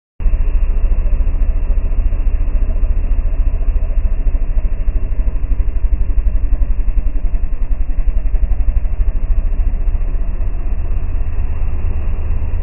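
Chevrolet Chevette's four-cylinder engine idling with a deep, steadily pulsing exhaust rumble.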